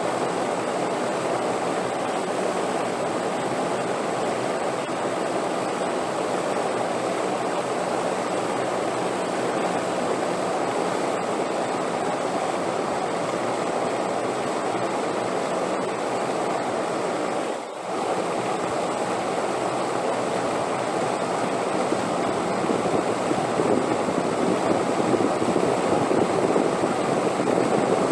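Wind blowing as a steady, even rush with no gusty breaks, dipping briefly about two-thirds of the way through and growing a little louder near the end.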